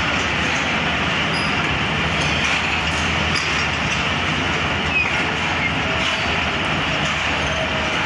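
Pakistan Railways passenger train rolling slowly along a station platform: a steady rumble of wheels and running gear heard from an open coach doorway, with faint voices from the platform.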